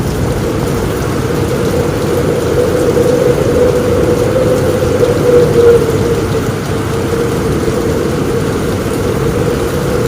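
Heavy rain falling steadily on a roof, a dense, even wash of sound that swells slightly about halfway through.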